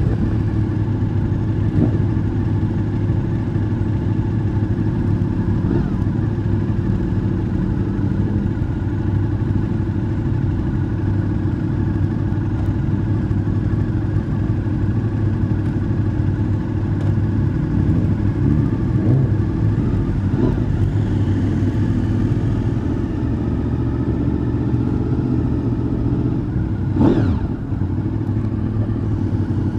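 Honda VFR800's V4 engine running steadily under way on the road, with a low rumble throughout. Near the end a brief note sweeps up and back down.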